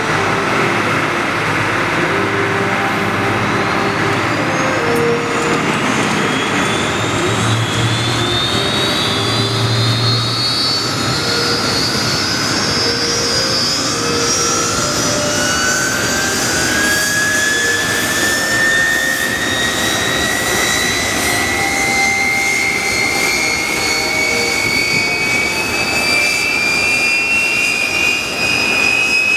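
Kawasaki T-4 jet trainers' twin turbofan engines starting up: a high whine that rises slowly and steadily in pitch as the turbines spool up, over a loud steady jet rumble.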